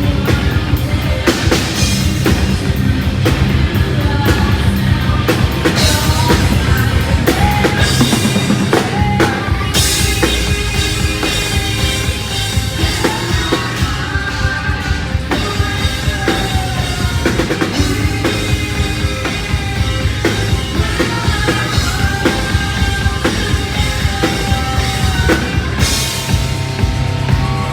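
Live heavy metal band playing loudly, with a drum kit's rapid, pounding bass-drum hits driving the song.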